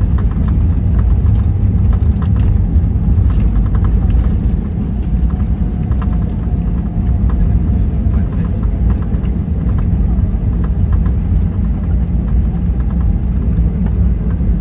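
Cabin noise inside an Airbus A321 on the ground after landing: a steady low rumble of the engines and the rolling airframe, with scattered small rattling clicks from the cabin fittings, most of them in the first few seconds.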